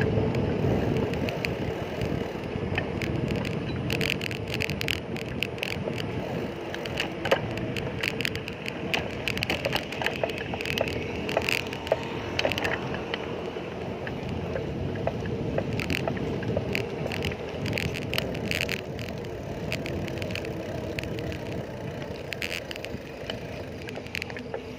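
Bicycle riding noise: a steady rumble of tyres and wind on the microphone, with many short clicks and rattles.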